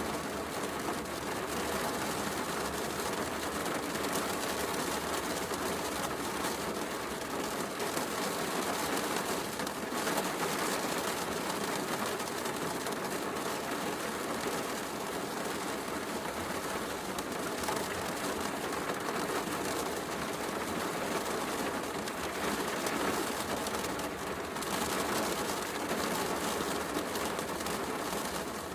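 Steady heavy rain mixed with a fireplace crackling.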